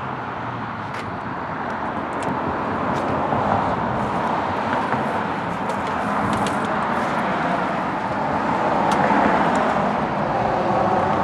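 Road traffic noise, a steady rushing that swells as vehicles pass, loudest about a third of the way in and again near the end, with a few faint clicks.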